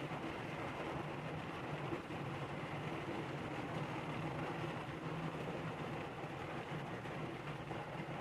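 Steady rain falling, an even hiss with no breaks, over a faint low steady hum.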